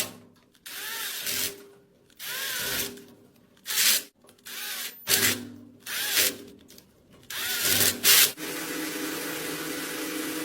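A small handheld power tool running in short bursts of a second or less, some speeding up and slowing down, with hard cuts between them, then running steadily for the last two seconds.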